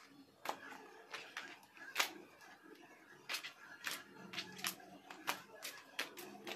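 Homemade glue-and-Cinthol-soap slime being squeezed and stretched by hand, popping and clicking as air bubbles in it burst, about two or three sharp clicks a second at uneven spacing.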